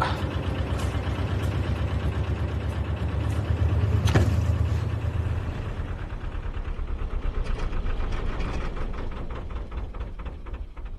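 Narrowboat's engine running under throttle with a steady thudding beat, pushing the boat round against the river current. A single sharp knock comes about four seconds in, then the engine eases off and fades toward the end.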